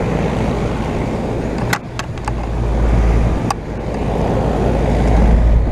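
2012 Bryant Legacy central air-conditioner outdoor unit running: a steady hum from the compressor and a rush of air from the condenser fan, with a few sharp ticks near the middle. The compressor can be heard a lot more now that the unit is cleaned.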